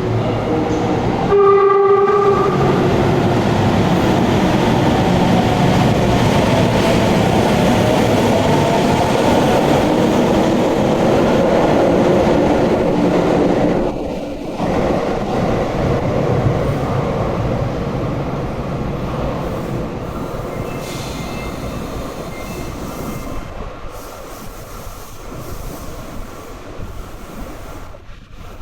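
Sendai Subway Series 1000N electric train departing: a short horn blast about a second in, then traction motors and wheels running loudly as it pulls out and accelerates, the sound fading away over the second half as the train leaves the station.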